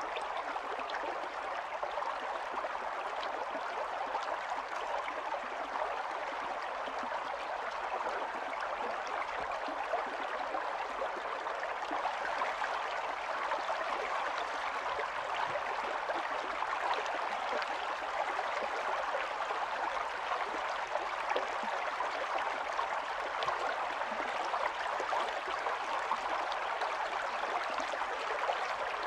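Running water of a small stream flowing and babbling steadily over stones.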